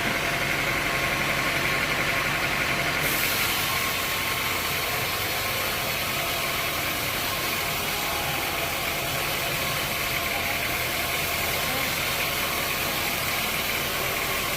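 Sawmill machinery running steadily, an engine-like hum with a high hiss that gets louder about three seconds in.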